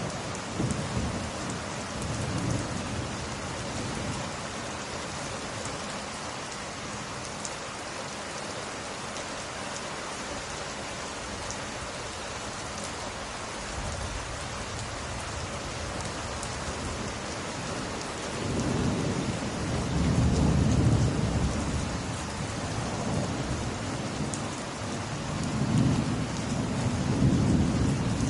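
Steady rain falling, with low rolling thunder rumbles swelling up near the start, around halfway and twice in the last third. Faint crackles of a wood fire tick through it.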